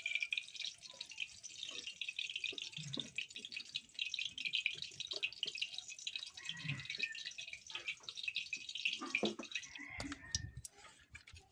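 Cooking oil heating in a pan for frying fish, crackling and spitting steadily, then cutting off about ten seconds in, followed by a low knock or two.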